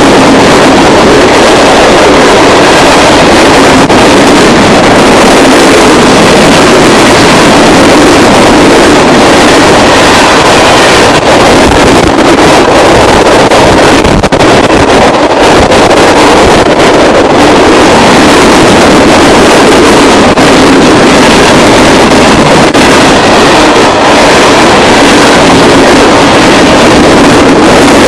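Loaded ballast cars of a freight train rolling past close by, a steady loud rush of steel wheels on rail, overloaded and mixed with wind on the microphone.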